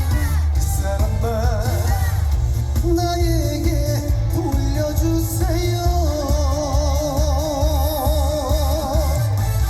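Live trot song: a male singer holding long notes with a wide vibrato over a loud band backing with heavy bass.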